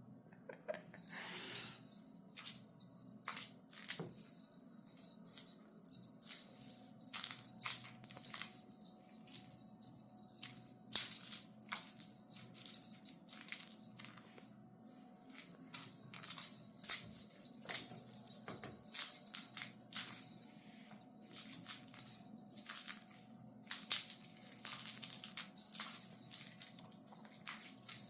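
Kittens batting at a fishing-rod cat toy: scattered light taps, clicks and faint jingling that come irregularly, over a steady low hum.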